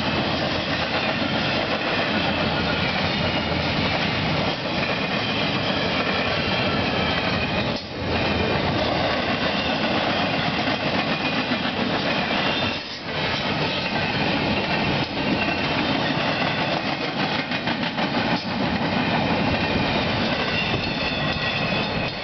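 Canadian Pacific freight train cars rolling past at close range: a steady rumble and clatter of wheels on the rails, which drops briefly twice, about eight and thirteen seconds in.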